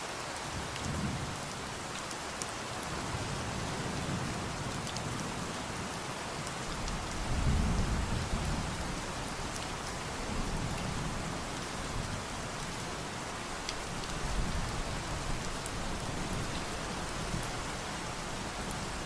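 Steady rain falling, with scattered fine drop ticks, and low rolls of distant thunder that swell several times, the loudest about seven to nine seconds in.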